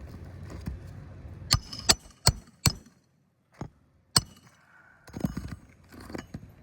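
Hand tool striking roofing nails on an asphalt shingle roof: four sharp, ringing metal-on-metal strikes in quick succession, two more a little later, then a short stretch of scraping and rustling.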